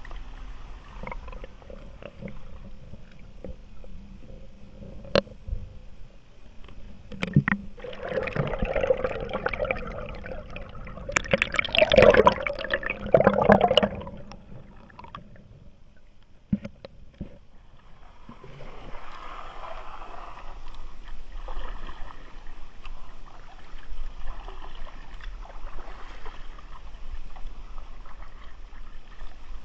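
Kayak paddle splashing and water sloshing and gurgling around the kayak. A few sharp knocks come before the loudest splashing, which falls near the middle. The water sound then dies down briefly and returns as steady lapping.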